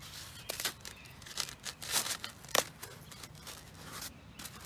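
Irregular crisp snips and rustles of craft materials being cut and handled, with the sharpest snip about two and a half seconds in.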